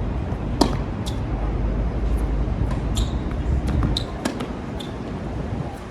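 Tennis ball being hit back and forth: a series of sharp pops from racket strikes and ball bounces, the loudest about half a second in. Strong wind buffets the microphone with a heavy rumble throughout.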